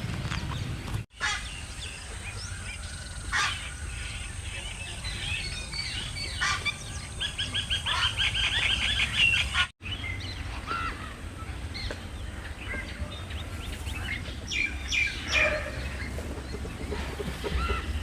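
Many birds calling at once in a busy flock, with a fast run of repeated calls in the middle. The sound drops out briefly twice, and a low rumble runs underneath.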